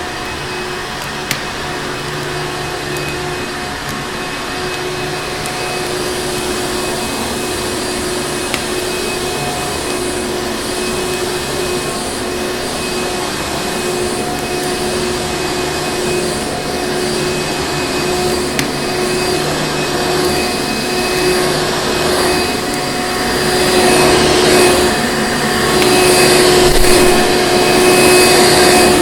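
Vacuum cleaner running steadily with a droning whine, with a few sharp clicks in the first two-thirds. It grows louder near the end, with a pulsing hiss, as if the nozzle is working over a surface.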